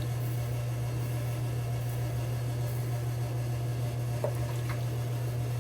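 A steady low hum, with two faint ticks near the end.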